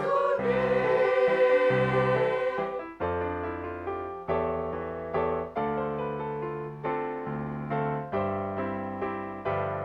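A women's choir's held chord ends about three seconds in. Then a keyboard plays slow chords, each struck and left to fade, about one a second.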